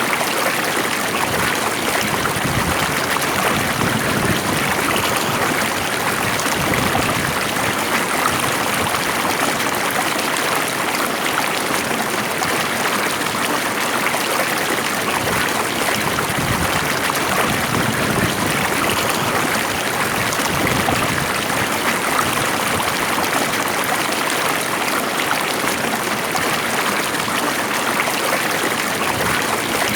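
Water flowing steadily in a stream, an even rushing babble with no breaks.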